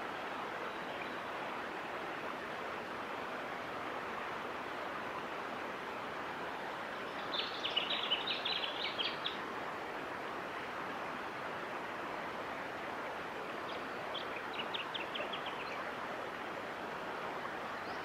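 Steady rushing background noise, with two short bouts of rapid, high chattering bird calls: a louder one about seven seconds in and a fainter one, falling slightly in pitch, near fifteen seconds.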